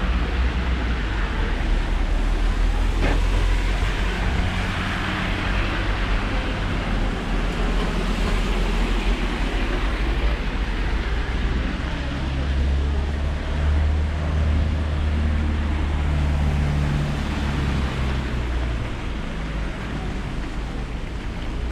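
Steady rain on a city street with road traffic going by. A vehicle's engine hum comes in about halfway through and fades away near the end.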